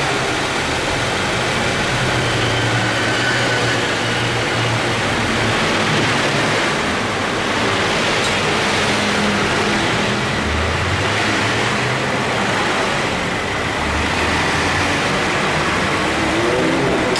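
2014 Subaru Forester's flat-four engine idling with the air conditioning running, its low tones shifting about two-thirds of the way through. The A/C compressor makes an abnormal noise as it starts up, a sign of mild compressor wear.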